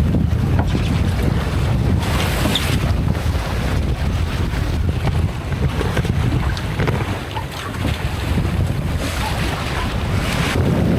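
Wind buffeting the microphone with a steady low rumble, over the rushing wash of water along the hull of a 32-foot sailboat under sail with no engine. The hiss of the water swells in surges, around two seconds in and again near the end.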